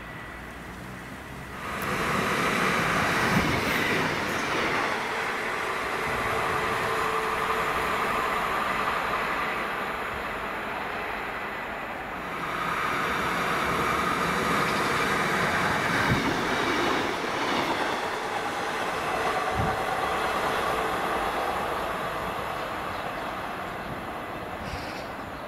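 Diesel passenger train running past, with a sustained rumble and steady higher tones. It starts abruptly about two seconds in, eases briefly around the middle, swells again, and fades near the end.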